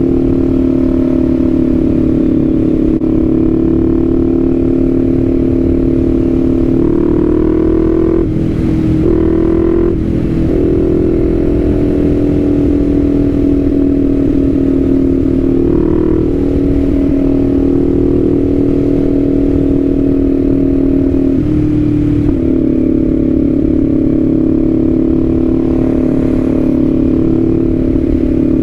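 Kawasaki Z400's parallel-twin engine running at a steady cruise, heard from the rider's seat. There are brief breaks and changes in the engine note about eight to ten seconds in and again a little past twenty seconds.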